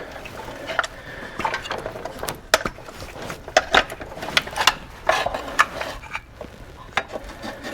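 Spark plug wires and the distributor cap being worked loose by hand on a GM engine: an irregular run of sharp clicks and snaps with short scrapes and rattles.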